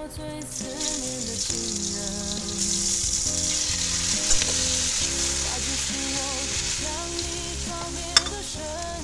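Hot oil sizzling in a steel wok as chicken pieces are stir-fried with a spatula. The sizzle swells about two and a half seconds in, with a sharp clack of the spatula against the wok about four seconds in and again near the end. Background music plays underneath.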